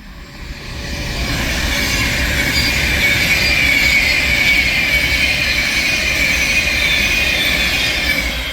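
Class 390 Pendolino electric train passing through the station without stopping: a rush of wheel and rail noise that builds over the first second or so and holds, with a high tone that slowly falls in pitch.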